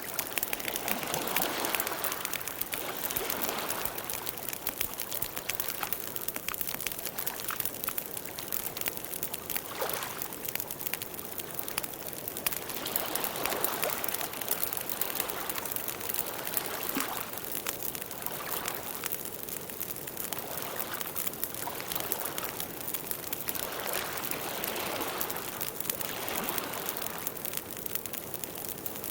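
Campfire burning: a dense run of small crackles and pops over a hiss of flames that swells and fades every few seconds.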